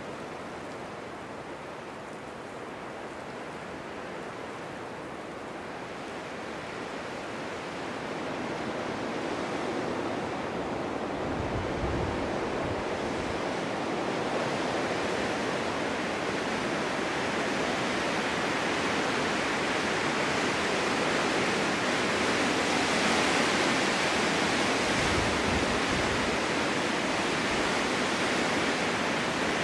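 Winter wind blowing steadily through a forest meadow, swelling into stronger gusts from about a third of the way in, with a couple of low buffeting rumbles.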